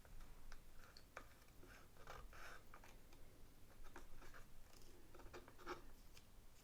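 Faint close-miked chewing of sushi rolls: soft wet mouth clicks and smacks, scattered irregularly, coming thicker twice.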